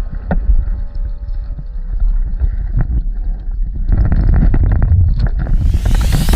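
Wind buffeting the microphone aboard a sailing dinghy under way, a heavy low rumble with many short knocks; a louder hiss sets in near the end.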